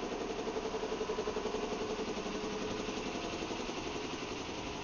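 London Underground A Stock Metropolitan line train starting to pull away from the platform, its machinery making a steady hum with a rapid pulsing that eases off slightly over the last few seconds.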